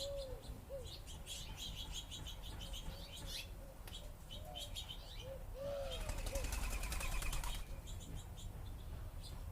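House sparrows chirping repeatedly in short high notes. About six seconds in, a flurry of wing flapping lasts roughly two seconds.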